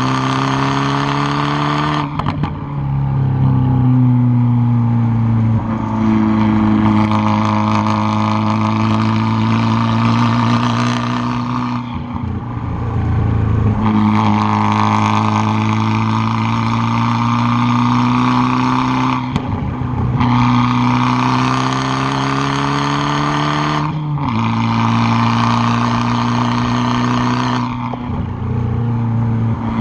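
Tuned Fiat 500 Abarth's turbocharged 1.4-litre four-cylinder exhaust, heard close at the tailpipe, pulling hard under load. The note breaks off briefly about five times as the throttle is lifted or a gear is changed, then picks up again.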